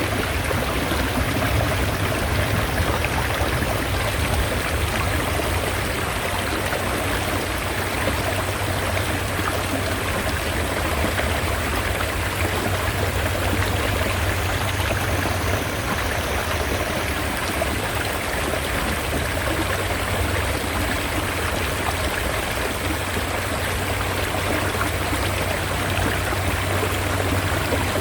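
Mountain stream running steadily: a continuous, even rush of water.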